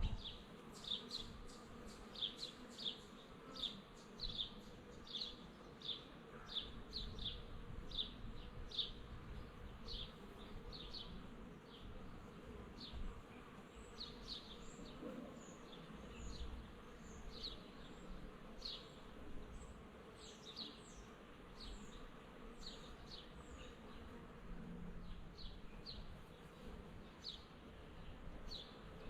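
Honeybee swarm buzzing as a faint steady hum, over short high chirps that repeat about twice a second.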